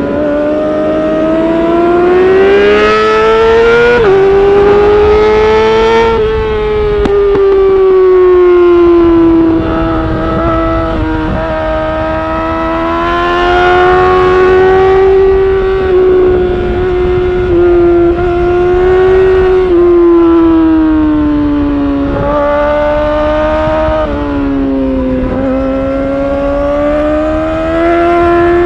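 2019 Yamaha R6's inline-four engine through an Akrapovic Evolution titanium exhaust, pulling hard at high revs, its pitch rising and falling with sudden steps as it shifts through the gears, over a low rush of wind.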